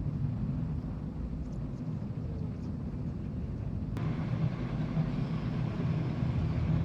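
Steady low drone of a large car ferry underway, the engine and hull rumble heard on board. It cuts abruptly about four seconds in and continues slightly louder.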